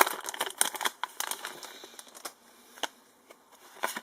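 Foil booster pack wrapper crinkling as it is handled and torn open. The crackling is busy for about the first second, then thins to a few scattered crackles.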